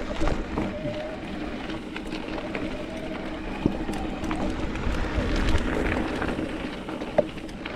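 Mountain bike riding over a rough trail: a steady rush of tyre and wind noise with scattered rattles and knocks from the bike, two sharper knocks standing out, one about halfway and one near the end.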